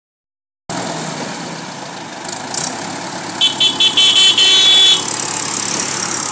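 Tractor engine running steadily, with a vehicle horn sounding a quick series of short toots that run into one longer blast about three and a half seconds in.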